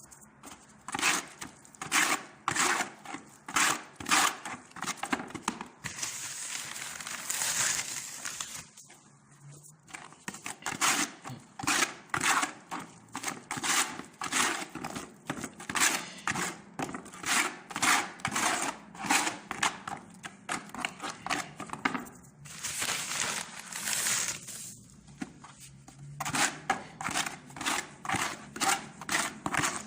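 Spatula or trowel scraping through wet Ceresit adhesive in rhythmic strokes, about two a second, as the glue for the drywall is worked. The strokes stop twice for a moment, near a third of the way in and again about three quarters of the way in.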